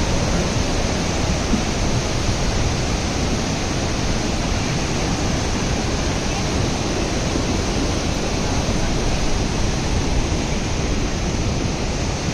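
Stream in flood rushing past, a steady, unbroken noise of fast-flowing water.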